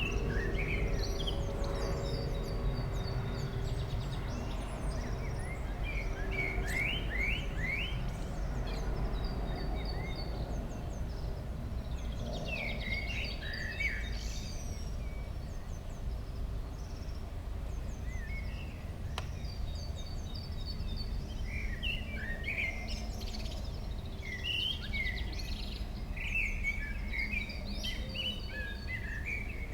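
Songbirds chirping and twittering in short, scattered phrases over a steady low outdoor rumble.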